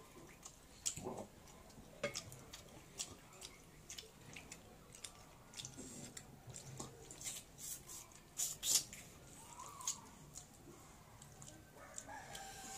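Close-up eating sounds: wet chewing and sharp lip-smacking clicks from people eating meat and small bones with their hands, scattered unevenly, the loudest smacks about eight to nine seconds in.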